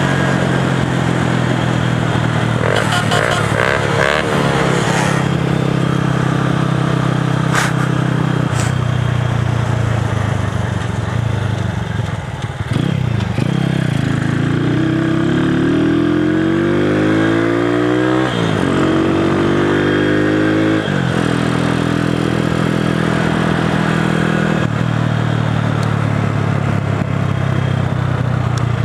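Small four-stroke motorcycle engines running hard during a race, holding steady revs, then revving up through the gears in the second half, with a rise, a drop and a second rise.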